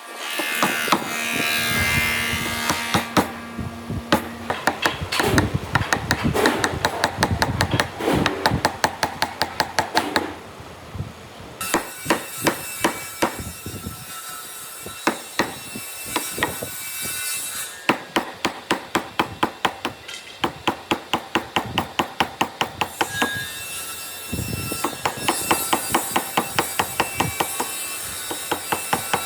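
Hammer or mallet blows on wood, struck in long runs at about three a second with short pauses between runs, typical of chopping out a hand-cut dovetail joint.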